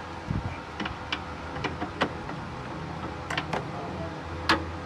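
Irregular sharp clicks and light metallic taps, about eight in a few seconds and spaced unevenly, like hand tools being handled and set down, over a steady low hum.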